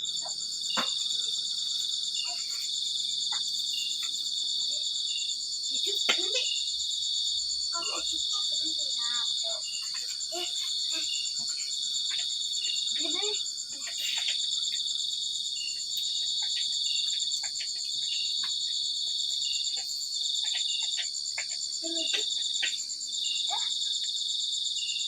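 Crickets chirping. One continuous very high trill sounds alongside a lower trill that breaks off and restarts every second or so.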